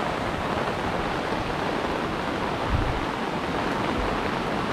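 Steady hiss of rain falling, with a brief low thud just under three seconds in.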